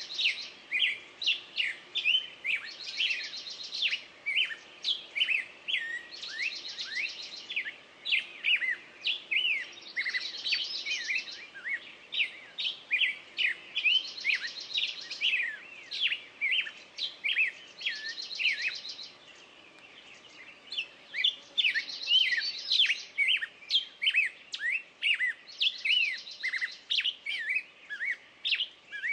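Birdsong chorus: several birds chirping in quick, sharp notes, while one bird repeats a rapid high trill about a second long roughly every four seconds. There is a short lull about two-thirds of the way through.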